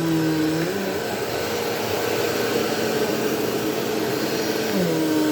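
Bissell Powerforce Helix Turbo Rewind upright vacuum running steadily. Its motor pitch steps up less than a second in and falls back again near the end.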